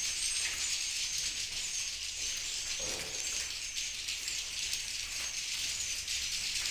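Dense, continuous high-pitched twittering of many swiftlets, a steady chorus of overlapping chirps.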